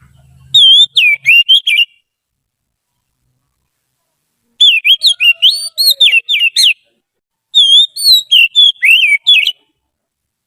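Oriental magpie-robin (kacer) singing: three phrases of quick, varied whistled notes, each lasting one to two seconds, with pauses of a few seconds between them.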